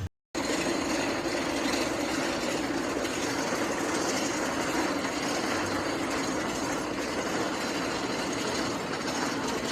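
Roller coaster train running on its track, a steady, unbroken running noise that sets in just after a short gap at the start.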